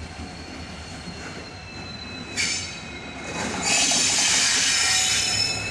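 Train rolling along the platform with its wheels squealing in several high, steady tones, a sudden louder screech about two and a half seconds in, then growing much louder from about three and a half seconds in.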